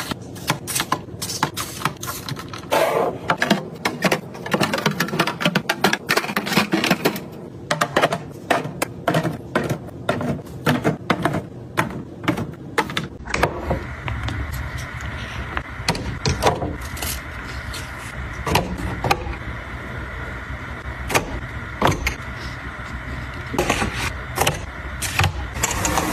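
Quick clicks, knocks and clatter of household items and containers being handled, set down and opened. About 13 seconds in, a steady rushing hum starts under the clatter and keeps going.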